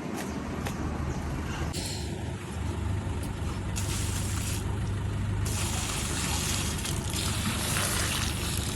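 Pressure washer running with a steady motor hum, its water spray hissing on and off several times and running continuously through the second half.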